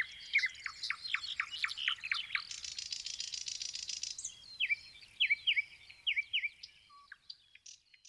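Songbird song: a string of quick, high, down-slurred notes, a rapid trill about midway, then more notes in pairs, fading out near the end.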